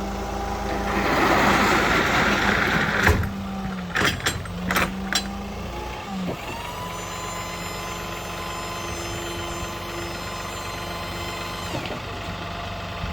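Engine idling underneath a short hiss, then several sharp metal knocks, then a steady motor whine of about five and a half seconds that winds up at the start and winds down at the end.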